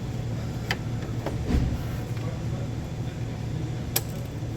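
A few sharp metallic clicks and knocks from hand work on engine parts, the loudest near the end, over a steady low hum.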